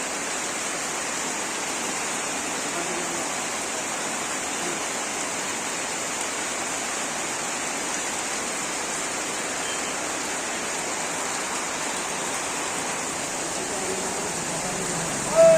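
Steady heavy rain falling, an even hiss that holds constant. A brief, louder sound with some pitch comes right at the end.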